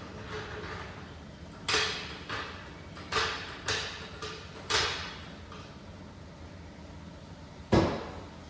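Sharp metal clanks and knocks, about six spread over a few seconds and one louder clank near the end, some ringing briefly: a jack being worked into place under the transmission during an engine install.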